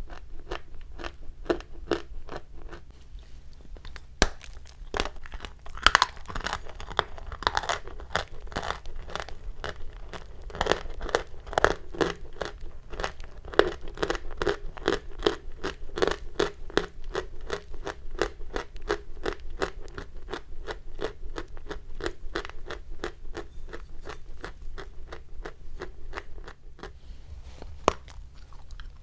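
Chalk being crunched up close: a long, fairly even run of short, sharp crunches, about three or four a second.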